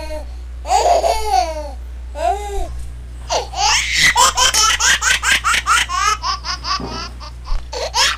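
A baby laughing and giggling in quick repeated bursts, most rapid in the second half: a laughter sound effect laid over the picture.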